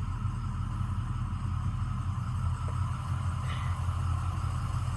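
6.0-litre diesel engine of a Ford E-450 bus idling steadily, heard from inside the passenger cabin, with a steady hiss of air over the low rumble.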